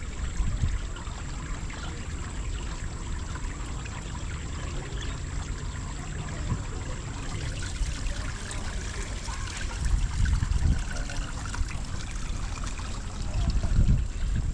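Water trickling and running steadily, with a few dull low bumps about ten seconds in and again near the end.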